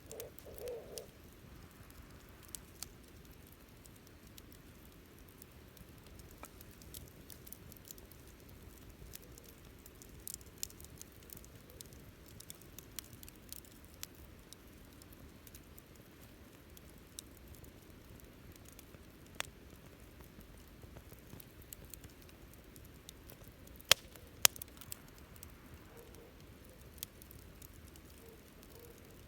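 Wood fire crackling: a low steady hiss of burning with scattered small snaps, and two loud sharp pops about half a second apart near the end.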